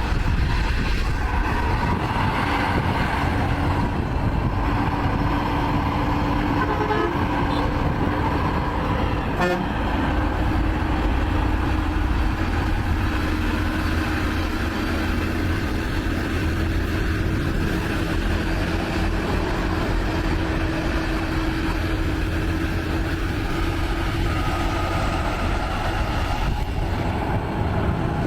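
Heavy semi-truck diesel engines working hard under a very heavy load, a loud steady low rumble. Partway through, a steady droning tone joins it for over ten seconds.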